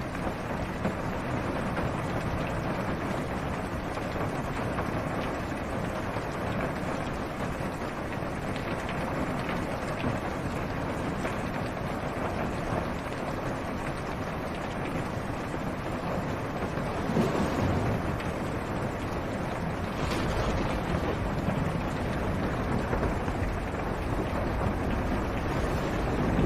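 Steady rain falling on a car's roof and windshield, heard from inside the car, with many single drops ticking through the hiss. It swells briefly twice a little past the middle and stays slightly louder after that.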